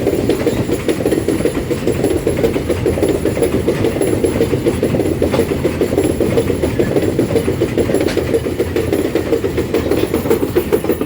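Empty iron-ore wagons of a freight train rolling past: a loud, steady rumble with a fast, uneven pulsing of wheels on the rails, which drops away at the very end.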